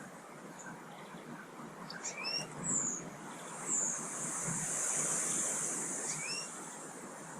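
Small garden birds calling: two short upward-sweeping call notes about two and six seconds in, with a few brief high chirps between them and a high hiss in the second half.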